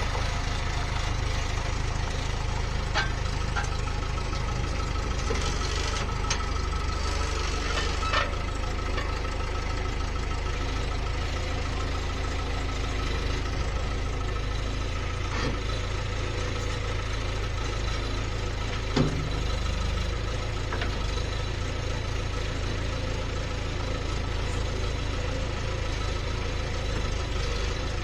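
Skid steer engine running steadily, with a few short knocks over it, the loudest about nineteen seconds in.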